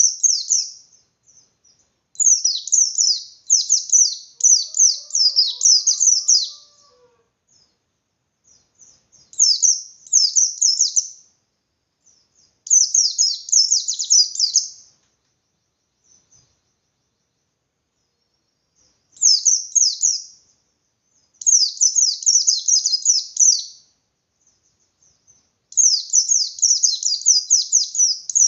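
A pleci bustomi, a white-eye, singing in the 'ngalas' style: bouts of fast, high, stuttering chirps, each one to four seconds long, with short pauses between.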